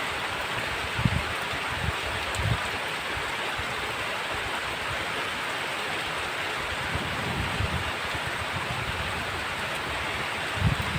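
Heavy rain falling steadily, a dense even hiss, with a few short low thumps about a second in and again near the end.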